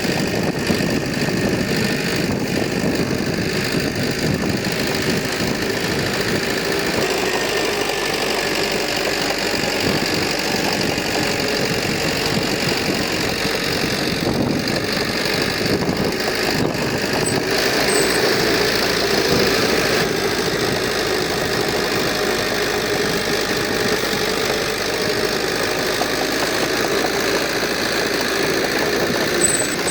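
Diesel engine of heavy earthmoving equipment running steadily, swelling a little around the middle.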